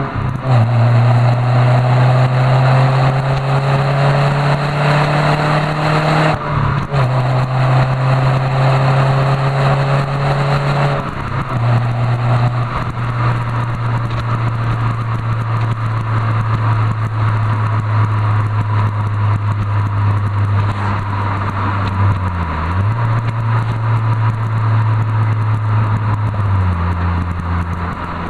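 Renault Clio III 1.6 16V four-cylinder's engine and Supersprint sports exhaust under way. The engine note climbs slowly in each gear and drops sharply at each upshift, three times in the first eleven seconds, then holds steady with a brief dip, and falls in pitch near the end.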